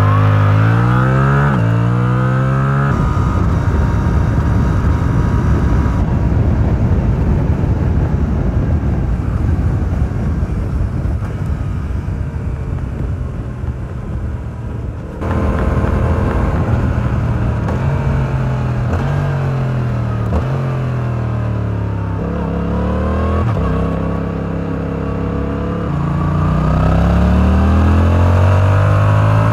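Stock exhaust of a 2022 Yamaha R7's 689 cc parallel-twin engine, heard from on the bike while riding. It revs up through two quick upshifts at the start, then gives an even, noisy sound without a clear pitch for about twelve seconds. From about halfway the revs fall and climb again through several gear changes, rising strongly near the end.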